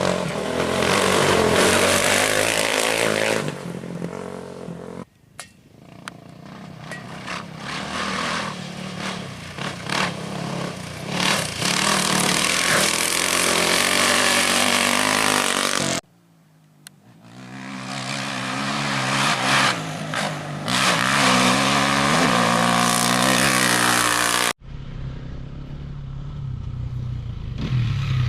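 Engines of off-road racing motorcycles and quads passing one after another, revving up and falling away as they take the curve. The sound breaks off abruptly three times between passes.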